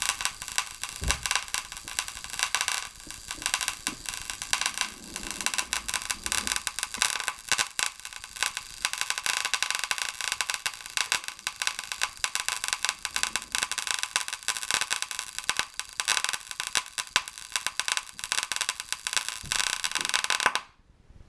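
The amplifier circuit board of a Paradigm PW 2100 v2 subwoofer crackles and pops rapidly and irregularly while powered, the sign of an electrical short on the board. The crackling cuts off suddenly near the end.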